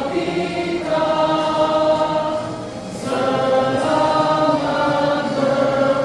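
A group of voices singing together in unison, holding long notes that change every second or two.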